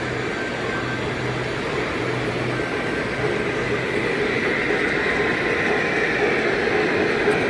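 Model trains running on a display layout's track: a steady rolling rumble that grows slowly louder, with a faint hum in the first few seconds.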